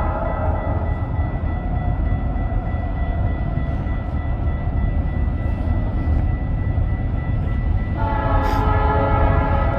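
A train going by, with a steady low rumble, while its locomotive horn sounds a chord. The horn trails off in the first second and blows again about eight seconds in.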